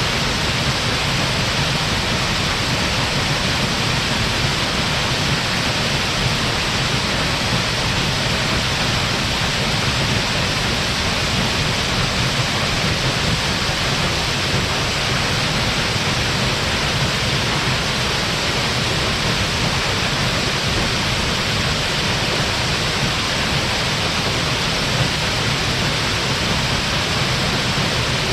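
Waterfall with a large flow of water, a steady full roar of falling water that does not change.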